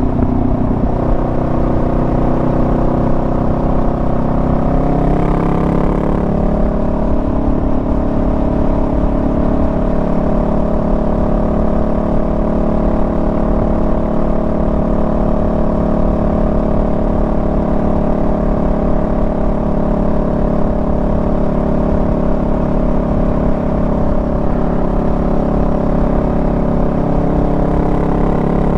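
Honda Rebel 500's parallel-twin engine running steadily while riding, over low wind rumble. Its pitch drops briefly around five seconds in, then holds steady.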